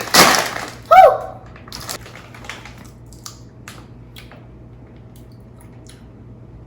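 A bag of potato chips being torn open and crinkled, loudest in the first second, then sparse light crackles of the plastic bag as chips are taken out.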